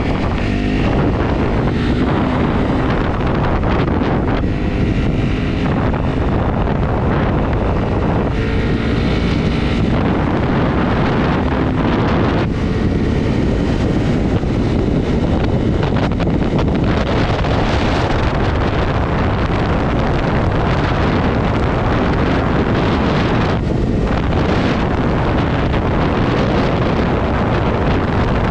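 Heavy wind noise on the microphone while riding a Honda CRF250 single-cylinder motorcycle at steady speed, with the engine running under the wind.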